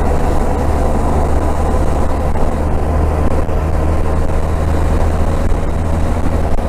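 Motorcycle cruising steadily at highway speed, heard from the rider's seat: a constant low engine drone under a heavy rush of wind noise.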